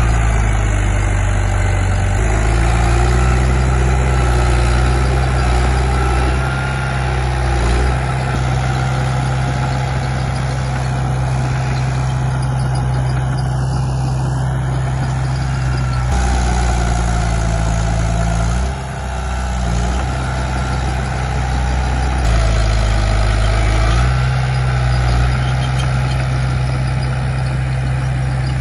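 Komatsu D31P bulldozer's diesel engine running hard, its pitch stepping up and down several times as the load changes while it pushes soil. The engine dips briefly about two-thirds of the way through.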